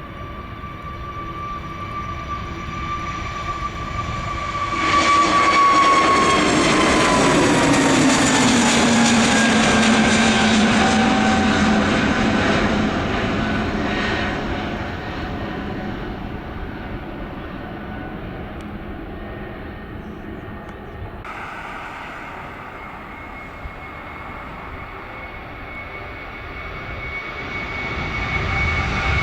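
Jet airliner passing close: its engine noise swells about five seconds in, with a high whine and a low tone both dropping in pitch as it goes by, then fades away. Near the end another aircraft's whine builds up.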